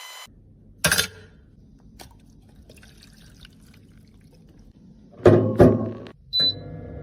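Handling sounds of small hard objects, most likely makeup containers and tools: a sharp knock about a second in, a faint tick, then two louder knocks in quick succession and a brief high ping near the end.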